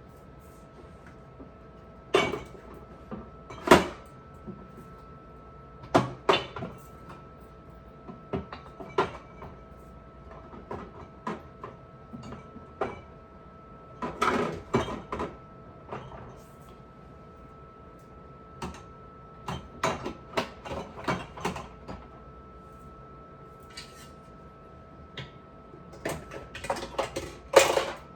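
Dishes and glass containers clinking and knocking as they are handled and set down, in scattered clusters, with the loudest knocks about four seconds in and near the end, over a faint steady hum.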